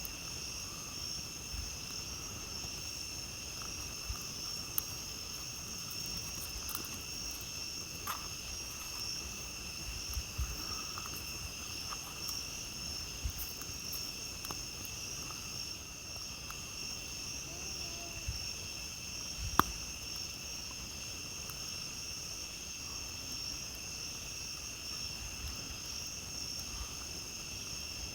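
Steady, high-pitched chorus of night insects, with scattered small crackles and pops from a wood campfire. One sharper pop comes about two-thirds of the way through.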